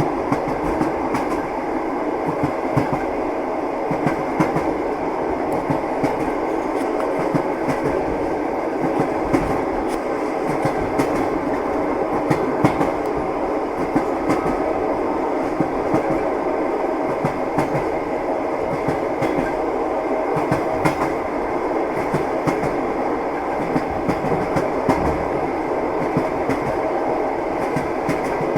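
Moving train: steady running rumble with the clatter of its wheels, many short clicks coming irregularly over it.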